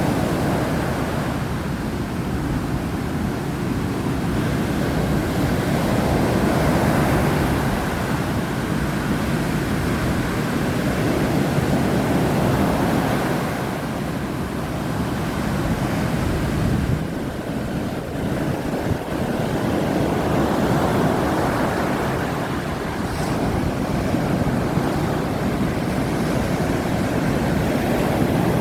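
Heavy surf breaking and washing on a beach, rising and falling every few seconds, with strong wind buffeting the microphone.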